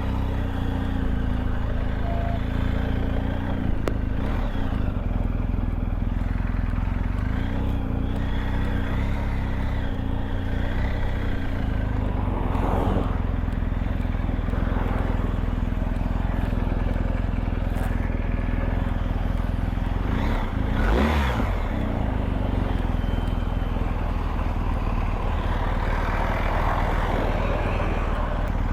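BMW R1250GS Adventure's boxer-twin engine running steadily while the bike is ridden, with heavy wind noise on the microphone. Brief swells of sound about halfway through and again about two-thirds through.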